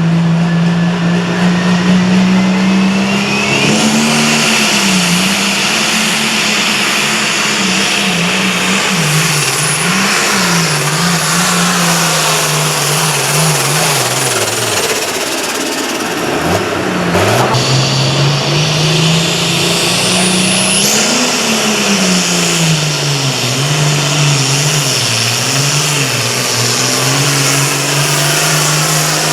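Pulling tractor's engine running hard under load, its pitch wavering up and down. About halfway through the pitch drops sharply, then climbs back up and holds.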